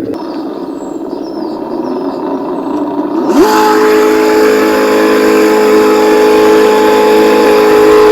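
Axial SCX10 RC crawler's sound kit playing a simulated engine through its small speaker: a rough low idle at first, then about three and a half seconds in it jumps sharply to a steady, higher revving note that holds.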